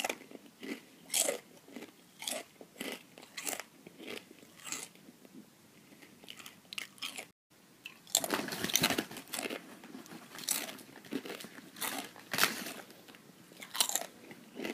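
A person chewing crunchy chips: a run of sharp crunches, with a brief gap about seven seconds in and denser, louder crunching after it.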